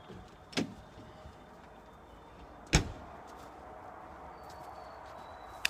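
Three sharp knocks over a quiet background: one about half a second in, a louder one near the middle, and one near the end.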